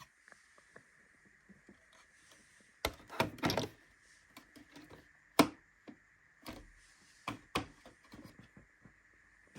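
Hard plastic clicks and knocks from handling parts of a Tassimo Suny pod coffee machine: a cluster of knocks about three seconds in, one sharp loud click a little after five seconds, then a few more clicks, over a faint steady high tone.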